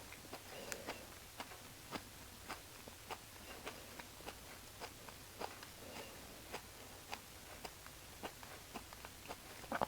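Close-up chewing of beef offal, with irregular wet mouth clicks about twice a second.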